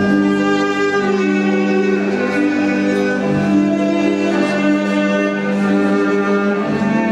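Slow string music: a bowed violin and cello melody moving over a long held low note.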